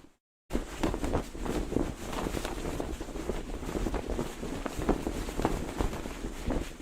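Cloth flag flapping and snapping irregularly in the wind, with low wind rumble underneath. The sound cuts out completely for a moment just after the start, then resumes.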